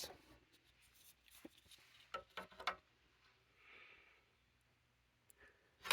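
Faint handling noise: a few light taps and clicks, mostly in the first three seconds, with a soft hiss about four seconds in.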